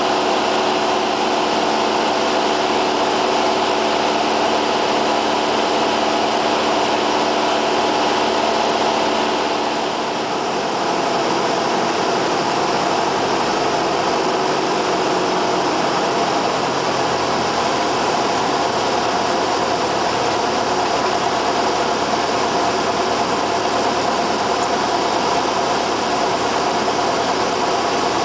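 Cessna 172R's four-cylinder piston engine and propeller running steadily in flight, dipping slightly in level about ten seconds in as the tone shifts lower.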